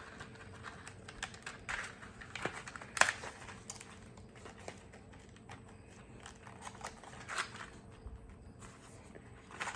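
Light handling of small plastic nail and glue packaging: scattered soft clicks and crinkles, the sharpest about three seconds in, over a faint steady hum.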